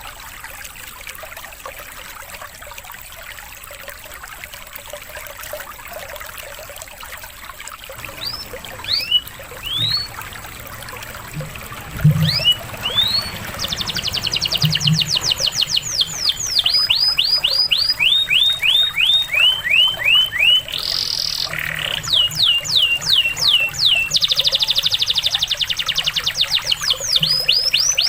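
Domestic canary singing over steadily trickling water. After several seconds of water alone, the bird begins with a few separate rising whistles. Its song then builds into fast trills and runs of falling notes that grow louder.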